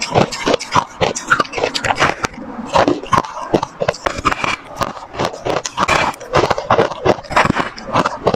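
Close-up crunching of ice being bitten and chewed: a rapid, irregular run of sharp cracks and crackles, several a second.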